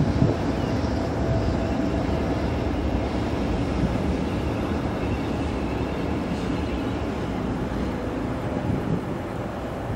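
Two passenger trains, a Hamburg S-Bahn unit and a Nordbahn FLIRT multiple unit, running at a distance over the approach tracks: a steady rumble of wheels on rail.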